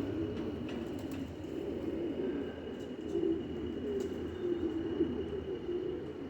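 Homing pigeons cooing continuously, several calls overlapping.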